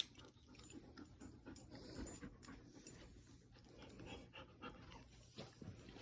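A dog panting softly, with faint scattered clicks.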